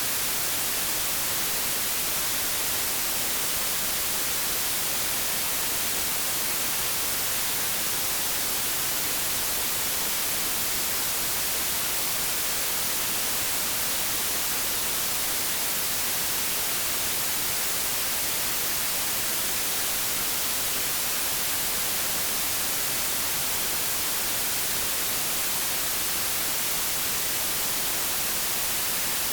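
Steady white noise static: an even hiss with no tones, rhythm or change.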